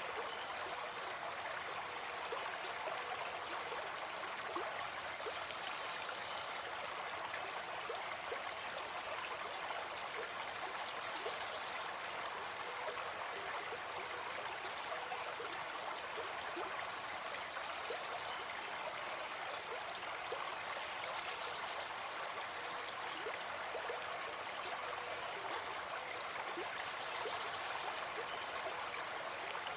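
Gentle forest stream flowing steadily: a continuous rush of water with fine bubbling and trickling.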